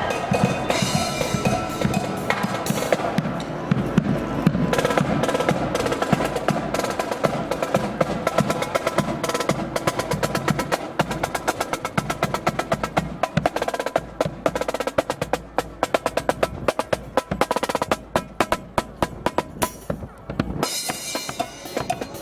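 Marching band drum line playing a cadence: rapid snare drum strokes and rolls over bass drum beats, dropping off abruptly near the end.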